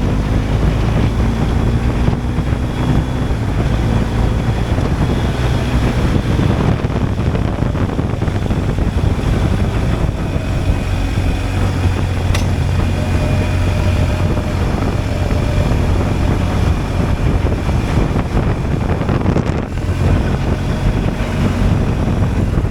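BMW R 1250 GSA's boxer-twin engine running at a steady cruising pace, with wind rushing over the microphone.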